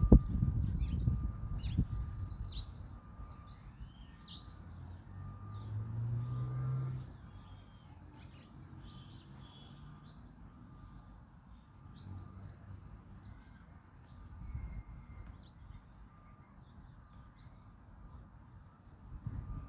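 Several small birds chirping and calling throughout. Over them run a low rumble in the first two seconds and a low engine-like sound that rises and swells about six seconds in, then fades. A faint, evenly pulsing beep-like tone sits underneath.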